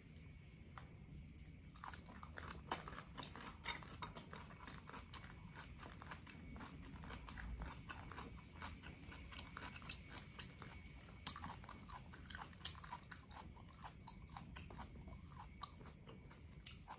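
Close-up chewing and mouth sounds of a person eating boiled bok choy: a steady run of small wet clicks and soft crunches, with one sharper click about eleven seconds in.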